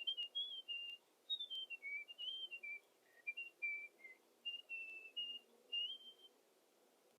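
A person whistling a tune: a clear single-note whistle moving through a melody of held and sliding notes, which stops about six seconds in.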